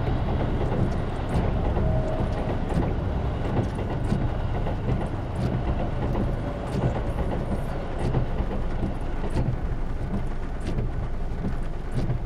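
Train running over a level crossing: a steady low rumble with scattered clicks.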